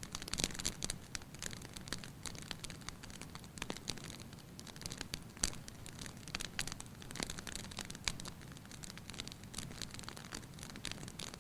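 Wood fire in a fireplace crackling: a constant scatter of irregular sharp pops and snaps over a low steady rush of flame, with one louder pop about halfway through.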